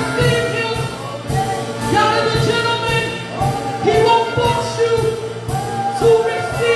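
Gospel worship music: a choir and solo voices singing over a live band with a steady beat.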